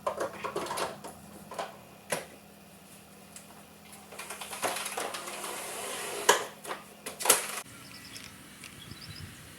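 Handling noise: an irregular run of knocks and clicks with rustling in between. It cuts off abruptly about three quarters of the way through.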